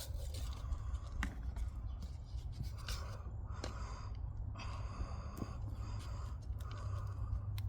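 Repeated short scratchy scraping and rustling from hands working soil and planting materials, with a few sharp clicks, over a low steady rumble.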